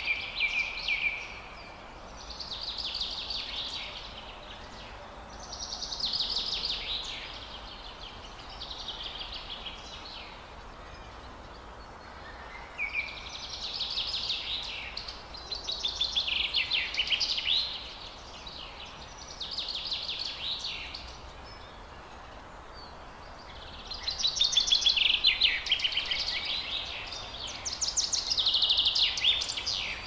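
A songbird singing in repeated short phrases of rapid, chattering chirps, each lasting a second or two with brief pauses between, over a steady background hiss; the phrases are loudest near the end.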